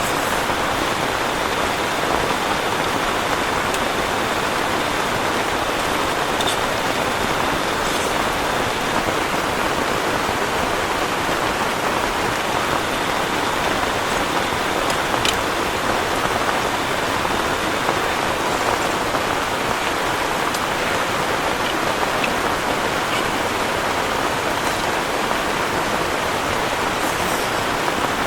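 Heavy rain falling steadily, a dense even hiss with a few sharper drop ticks now and then.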